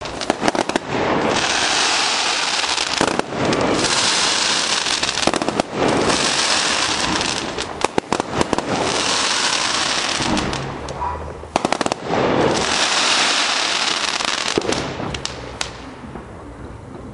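Fireworks going off loudly: dense crackling and hissing with sharp bangs, in several waves a couple of seconds long, dying down to scattered crackles near the end.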